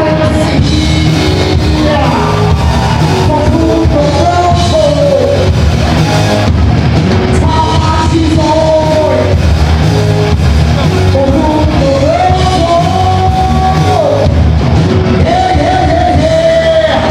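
Live rock band playing with a lead singer, drums and band underneath; the voice holds long sustained notes in the second half.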